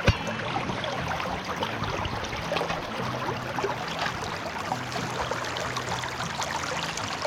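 River water running and splashing, full of small ticking drips, with a single sharp knock right at the start.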